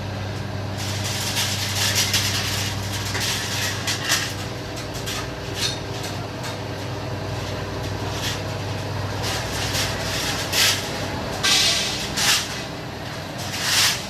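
Machinery running with a steady low hum, broken by repeated short bursts of hissing noise, several of them close together in the second half.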